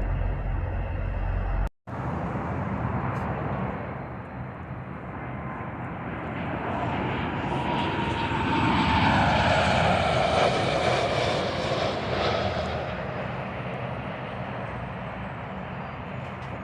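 Jet airliner flying past: its engine noise swells to a peak about ten seconds in, with a whine that drops in pitch as it goes by, then eases off. A low rumble fills the first couple of seconds and cuts off abruptly.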